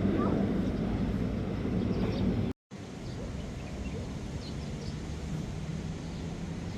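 Outdoor background: a steady low rumble with a hum, with faint short chirps above it. It drops out completely for a moment about two and a half seconds in, then resumes a little quieter.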